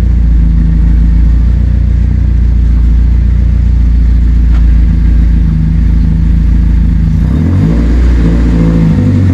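Car engine idling steadily, close to the microphone, then its speed rising and dipping about seven and a half seconds in.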